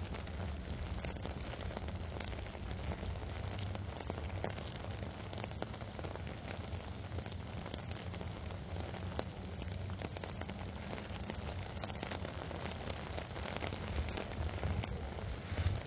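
Heavy rain pattering steadily on an umbrella, a dense run of fine drop clicks over a constant low rumble.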